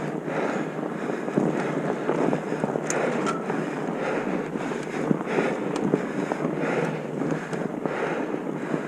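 Steady wind rushing over the microphone, with scattered short clicks and knocks through it.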